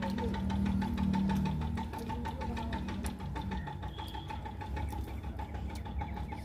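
A machine running steadily, with an even pulsing tick at about four or five beats a second over a low hum.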